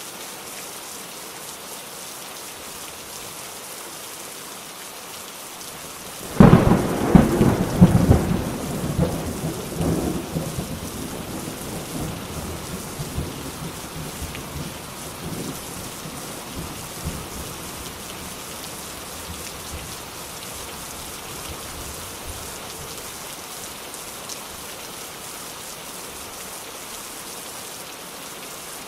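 Steady rain falling, with a sudden thunderclap about six seconds in: a sharp crack followed by crackling rumbles that die away over several seconds, leaving the rain.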